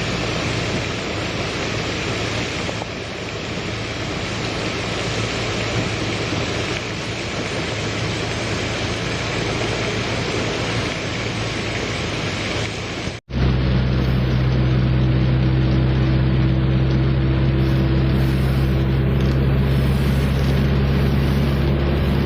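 Heavy rain pouring on a moving car, heard from inside with the car's engine and road noise underneath. About two-thirds through there is a sudden break, after which a steady low engine hum is louder.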